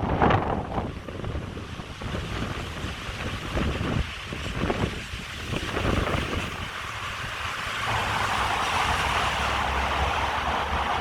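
River Plym in spate after heavy rain: fast, rough water rushing with a steady hiss, with gusts of wind buffeting the microphone in the first half. The rushing grows steadier and a little louder about eight seconds in.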